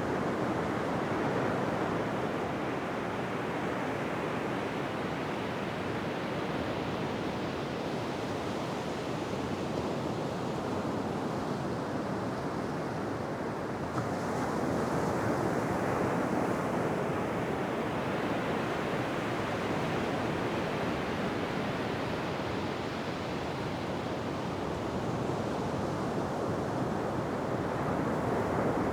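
Ocean waves washing onto a shore in a steady wash of surf, swelling louder about halfway through and again near the end.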